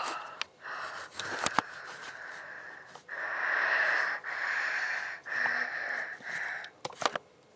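A person making breathy, raspy wheezing noises instead of words, in about five drawn-out exhalations, with a few sharp clicks.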